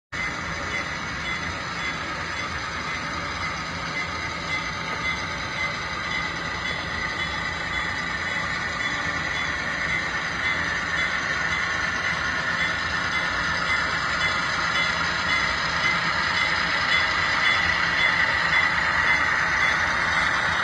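HO scale EMD SW7 switcher model locomotive crawling slowly along the track: a steady whirring of its small motor and wheels on the rails, growing gradually louder.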